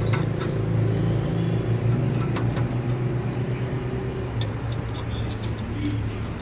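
Steady low drone of road traffic, with scattered light clicks throughout, more frequent in the second half.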